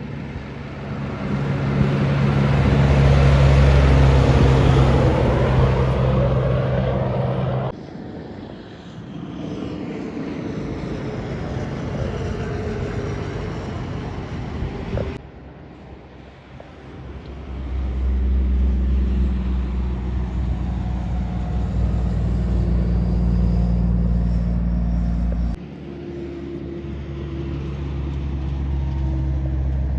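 Kenworth trucks' diesel engines and tyres as the trucks drive past on the road, a loud pass-by a few seconds in. The sound changes abruptly three times, as separate clips of passing and running trucks are cut together.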